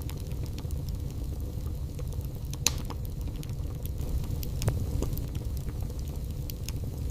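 Burning wood logs crackling in a fireplace: a steady low rumble under many small sharp crackles, with two louder pops, one a little under three seconds in and another nearly five seconds in.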